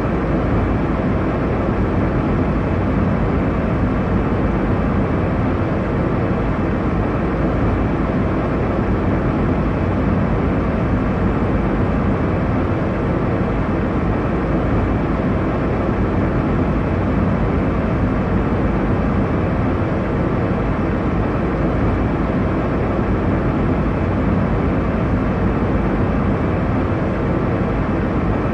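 Airliner cabin noise in flight: a steady, unbroken rumble and rush of engine and airflow noise, deep and muffled, with nothing standing out.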